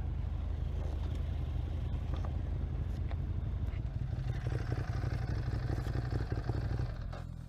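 Motorcycle engine running, heard from an onboard camera, with scattered clattering knocks; about seven seconds in it drops to a quieter steady hum.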